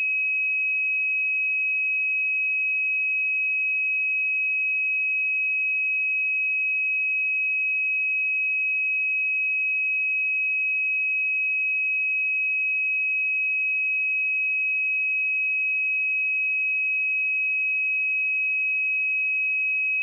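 A steady, unbroken 2548 Hz pure sine-wave test tone: a single high, constant pitch at even loudness.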